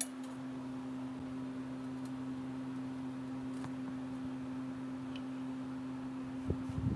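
A steady low hum of two held tones, with a sharp click at the start and a knock near the end.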